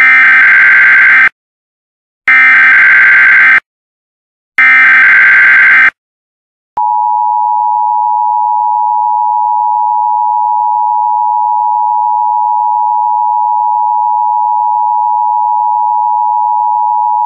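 Emergency alert broadcast opening for a severe thunderstorm warning. Three loud, buzzy data bursts of about a second each sound in the first six seconds, then a long, steady alert tone starts about seven seconds in and holds.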